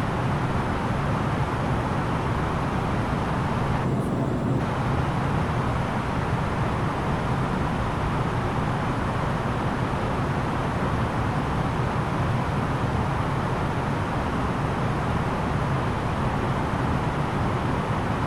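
Steady cabin noise of an Airbus A330-900neo in flight: the rush of airflow over the fuselage with the low drone of its Rolls-Royce Trent 7000 engines. The upper hiss dulls briefly about four seconds in.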